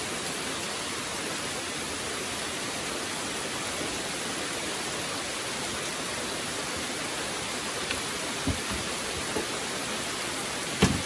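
Steady rain falling, an even hiss with no change in level. A few light knocks of things being handled near the end, the loudest just before it ends.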